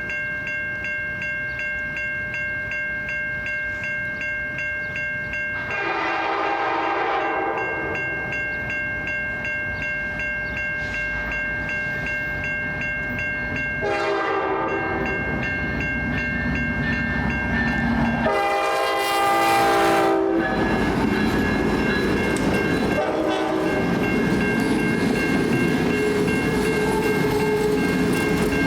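Passenger train approaching and passing a grade crossing: the crossing bell rings steadily while the locomotive's air horn sounds four blasts, the third the loudest and the last a short one. The train then rolls by with wheel and engine noise.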